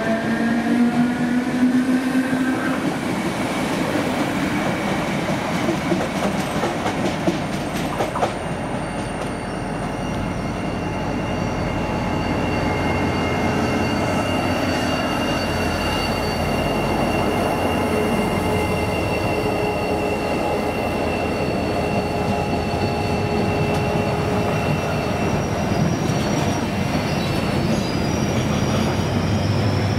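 A DART electric commuter train pulling away with a rising motor whine, then an Irish Rail 071 Class diesel locomotive approaching and passing with a train of ore wagons. Its engine runs under a steady rumble of wheels on rail, with a long, steady high wheel squeal from about a third of the way in.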